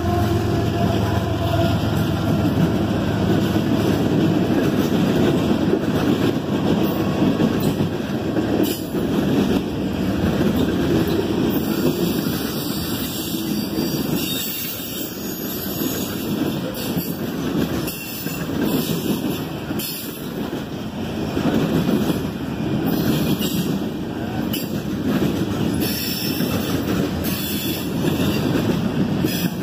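Freight cars of a CSX train rolling past: tank cars, covered hoppers, gondolas and boxcars. A steady rumble of steel wheels on rail, with scattered clicks as the wheels cross rail joints.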